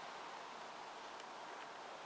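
Faint steady background hiss, with no distinct event.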